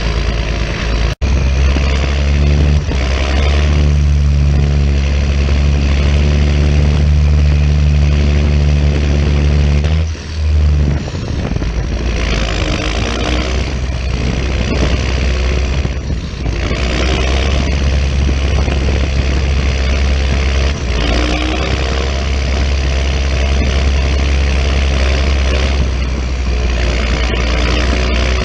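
John Deere 6920 tractor's six-cylinder turbo diesel engine running steadily and loud. There is a brief drop about ten seconds in, and recurring rushes of hiss over the engine note.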